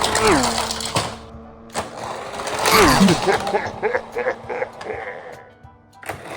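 Cartoon-style sound effects: two descending whistle-like tones, one near the start and one about three seconds in, over clattering noise, followed by a quick rattling that fades out near the end.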